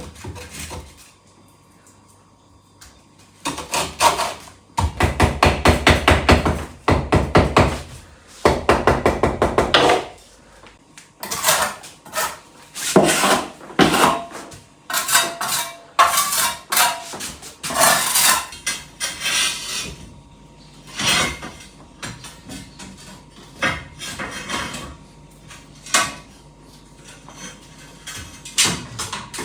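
Clattering and knocking of hard objects being handled: two spells of fast repeated strokes, then scattered clinks and knocks.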